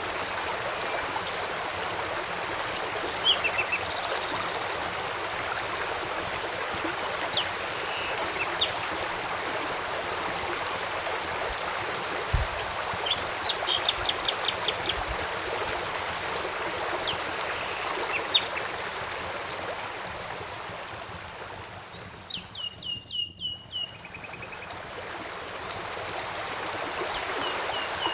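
River water flowing steadily, with birds calling and chirping over it in short repeated phrases. About four-fifths of the way through the water noise briefly fades while a bird trills.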